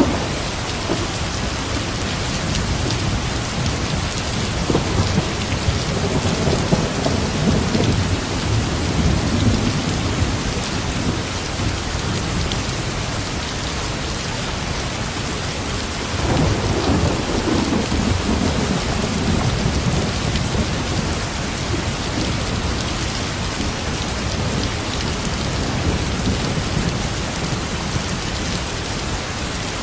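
Steady heavy rain falling, with rolls of distant thunder rumbling low, one from about four to ten seconds in and another from about sixteen to twenty seconds in.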